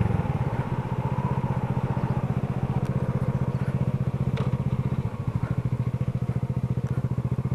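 Single-cylinder 125 cc four-stroke engine of an SSR Razkull 125 pit bike running at low, steady revs while riding slowly, with a rapid, even exhaust pulse. It eases briefly about five seconds in, then picks up again.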